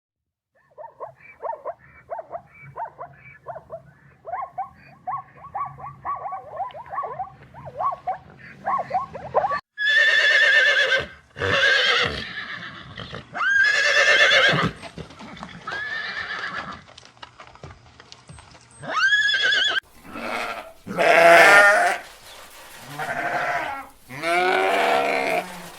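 Farm animals calling: a quick run of short, high calls, several a second, for about nine seconds, then louder drawn-out calls about a second each, repeated to the end.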